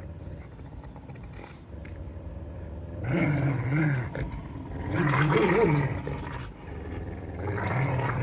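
Dogs growling in play during a tug-of-war over a rope toy: three long, wavering growls starting about three, five and seven and a half seconds in.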